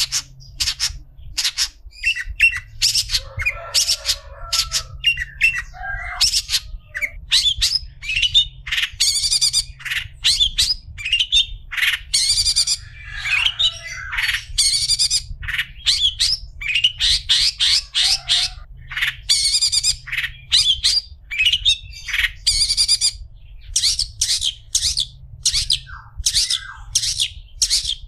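Long-tailed shrike (cendet) singing: a fast, unbroken string of short, harsh squawking and chattering notes, several a second, mixed with high chirps.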